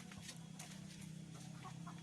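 Free-range village chickens clucking softly, with scattered rustling clicks over a steady low hum.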